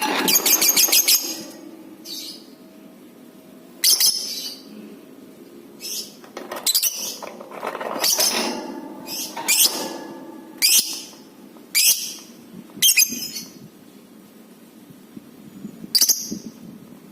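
Lovebird calling in loud, shrill bursts: a rapid trilling burst in the first second, followed by about a dozen short, sharp shrieks and chirps at irregular intervals.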